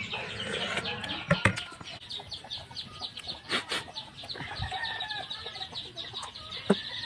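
Birds calling: clucking, over a fast, steady chirping.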